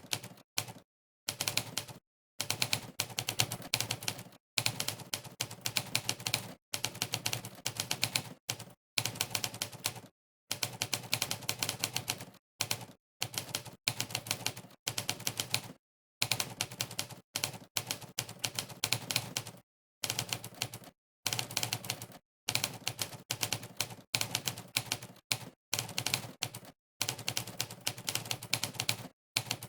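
Typewriter keystroke sound effects from Monkeytype's 'typewriter' sound setting, one sharp key-strike clack per keypress as someone types quickly. The clacks come in fast runs of several per second, broken every second or two by brief pauses of dead silence.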